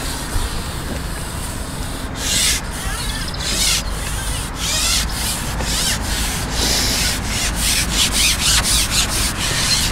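Irregular rubbing and scraping strokes that come faster after about two seconds, over a steady low rumble.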